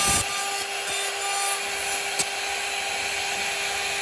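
CNC router cutting wood: a steady spindle whine over the rasping noise of the bit in the wood, with a sharp click about halfway through.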